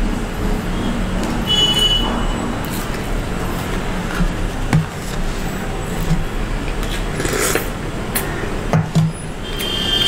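Close-miked chewing of crispy fried chicken, with scattered clicks and crunches over a steady low hum.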